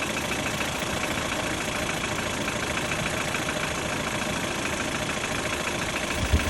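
Ford Fiesta mk6's 1.6 Duratec four-cylinder engine idling with a fast, even ticking knock. The uploader tags it as piston slap or knock from the bottom end, at about 443,000 km. A short low thump sounds near the end.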